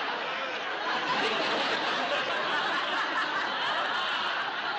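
Studio audience laughing: a long, full swell of crowd laughter that begins to ease off near the end.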